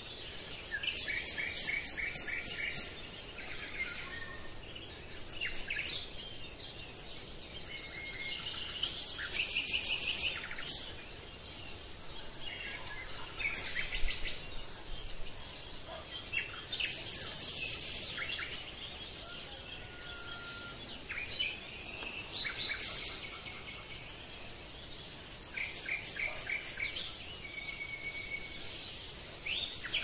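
Birds singing and chirping: rapid trills and short whistled calls come again and again every few seconds, over a faint steady hiss.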